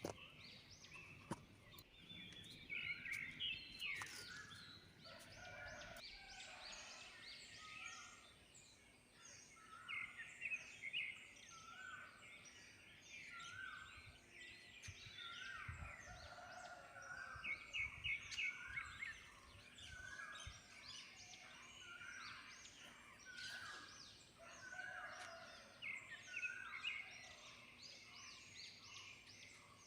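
Several birds singing and calling over each other in a dawn chorus. One bird repeats a short note about once a second while others chirp higher up.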